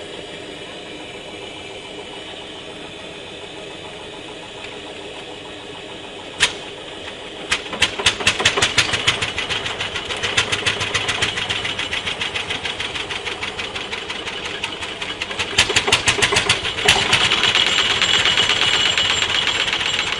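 Vintage tractor engine picking up about seven seconds in and running with fast, evenly spaced sharp exhaust beats, louder near the end.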